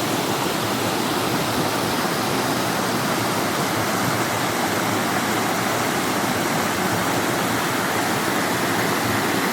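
Steady rush of flowing water, like a stream or small waterfall, running without a break.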